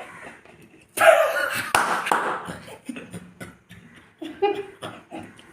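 A person spluttering and blowing out breath in loud puffs, with small wet clicks and brief voice sounds, as her face is pressed into a plate of food. The loudest puffs come about a second in.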